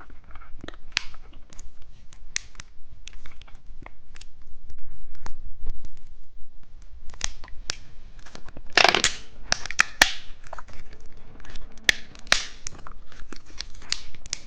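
Plastic candy packaging being handled close to the microphone: crinkling and tearing with many small clicks and crackles, and a louder rustle about nine seconds in.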